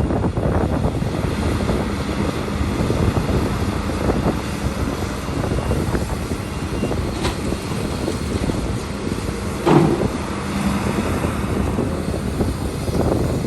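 Heavy diesel earthmoving machinery, an excavator and dump trucks, running steadily, with one short loud knock about ten seconds in.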